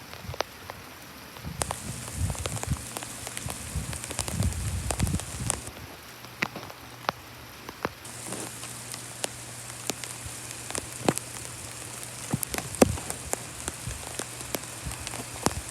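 Thunderstorm rain falling steadily, an even hiss with frequent sharp taps of drops striking close by. A low rumble comes and goes a few seconds in.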